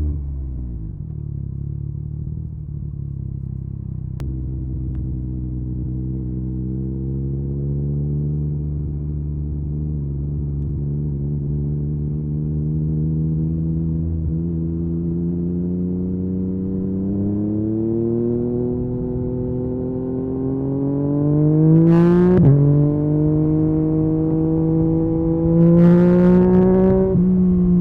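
Yamaha MT-09's inline three-cylinder engine through an Akrapovic carbon exhaust, under way. The revs fall at first, hold low and then climb slowly. Two harder accelerations follow, each cut off by an upshift: one about four-fifths of the way in and one near the end.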